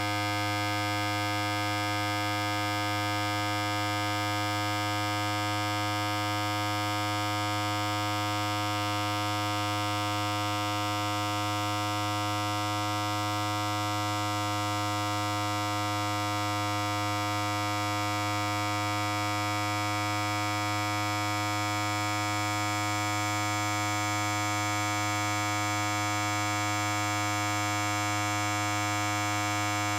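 Electric hair clipper running continuously with a steady buzz: a strong low hum with many even overtones above it, unchanging throughout.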